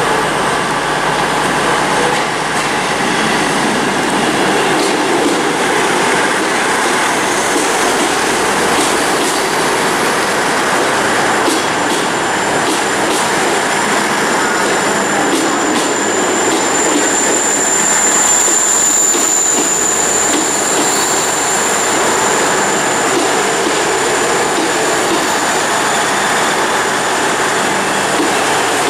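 CrossCountry Voyager diesel multiple unit, a Class 220 leading a Class 221, running past on the platform line with its diesel engines and wheels sounding steadily; a high steady squeal is heard for several seconds a little past the middle.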